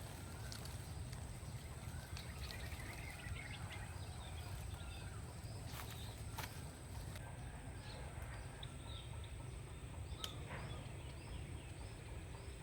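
Outdoor ambience: scattered short bird chirps over a steady low rumble and a thin, steady high-pitched whine, with a few sharp clicks.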